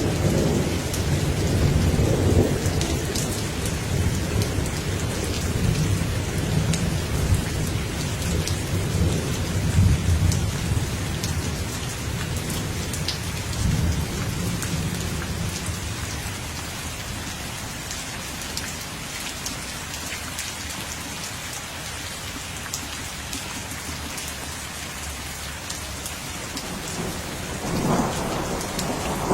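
Steady rain falling, with individual drops ticking, under rolling thunder. A long low rumble fills the first half and fades away, and a new, louder rumble of thunder builds near the end.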